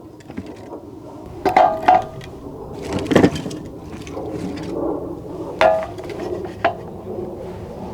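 Cookware and utensils clinking: about five separate hard knocks, some with a short metallic ring, the loudest about three seconds in.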